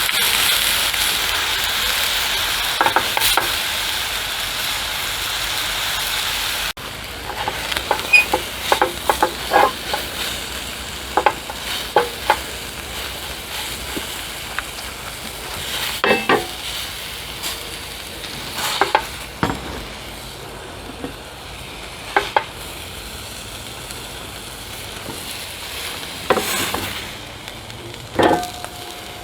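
Steak sizzling as it fries, a steady hiss that suddenly drops in level about seven seconds in. Scattered short knocks and scrapes sound through the rest, as from a utensil working the pan.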